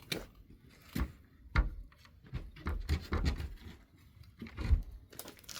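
Irregular knocks, thumps and scrapes of wooden pallet boards being handled and set against each other, with two louder thumps about a second and a half in and near the end.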